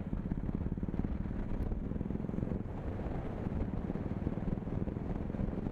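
KTM Duke motorcycle engine running steadily while riding, its rapid exhaust pulses even in pitch.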